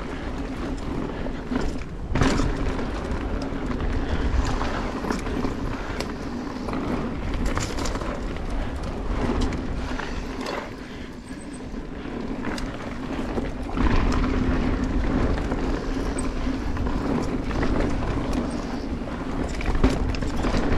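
Mountain bike riding along a dirt trail: tyres rolling over the dirt, wind rushing on the microphone and the bike rattling, with a few sharp knocks from bumps, the first about two seconds in.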